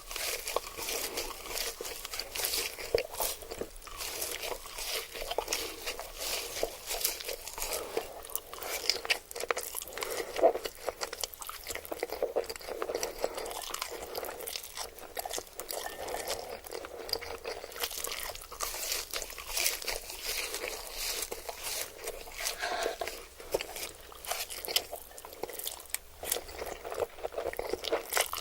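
Close-miked ASMR eating sounds: crunchy food being bitten and chewed, a steady run of crackling crunches with no pause.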